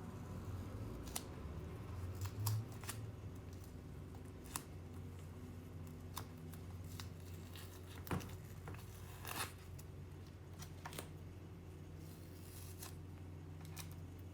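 Scattered short clicks and snips from small hand tools working on a diecast model, about ten in all, over a steady low hum.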